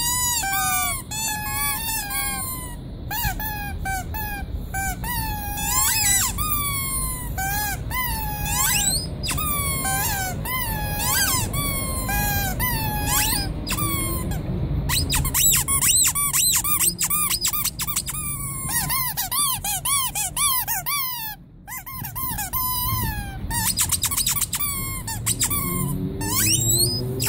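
Squeaky rubber toys being squeezed over and over, giving a quick run of short, high squeals that bend up and down in pitch.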